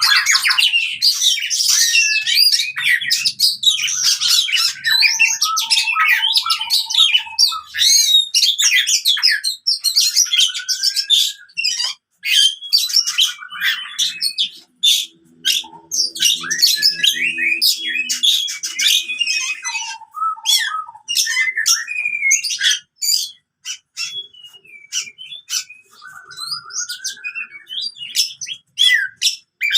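Oriental magpie-robin (kacer) singing in its aggressive 'fighting' style. It gives a loud, fast, varied run of chirps, whistled phrases and harsh scratchy notes with short pauses between bursts.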